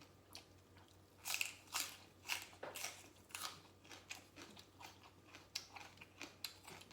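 A person chewing crunchy food close to the microphone: a run of crisp crunches, about two or three a second, loudest in the first half.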